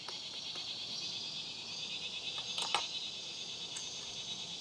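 Steady high-pitched chorus of crickets or other insects trilling, with a few short sharp clicks, the loudest pair about halfway through.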